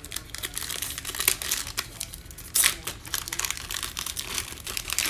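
Plastic foil wrapper of a Panini Mosaic football card pack crinkling and tearing as the pack is opened by hand, with a louder rip about two and a half seconds in.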